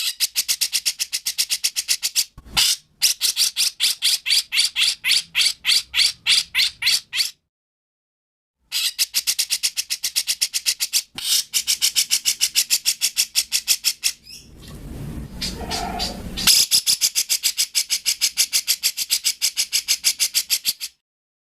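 Recorded songbird song for masteran training: long runs of sharp, high notes repeated rapidly, several a second. There is a short silent break about a third of the way in and a harsher, buzzier passage about two-thirds through.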